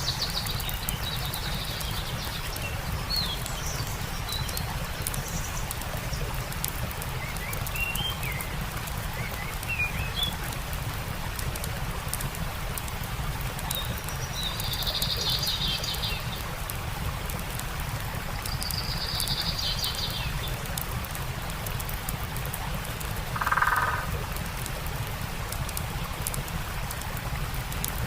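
Stream flowing steadily with birds chirping over it: scattered short chirps in the first ten seconds, two buzzy trills in the middle, and one louder, lower-pitched call near the end. Faint crackling from a campfire ticks throughout.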